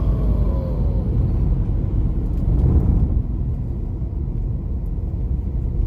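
Steady low rumble of road and engine noise inside a moving Jeep's cabin.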